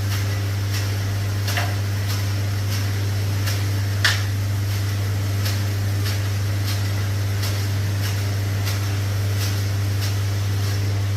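A steady low mechanical hum with faint, evenly spaced clicks about every two-thirds of a second, and one sharper click about four seconds in.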